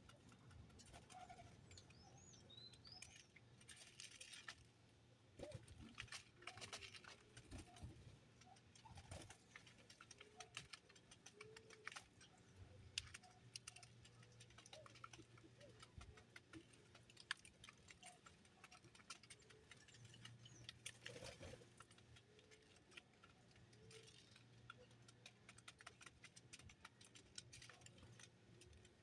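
Small birds: faint, scattered pecking clicks and taps throughout, with a few brief high chirps.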